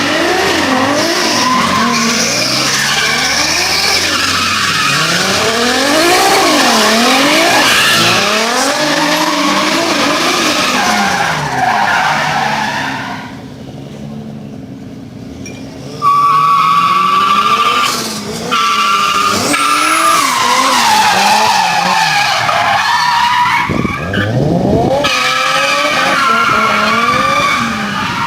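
Drift car engine revving hard, its pitch swinging up and down quickly as the throttle is worked through a slide. About halfway through, tyres break into a loud, steady squeal that slowly drops in pitch over several seconds, and then the revving picks up again.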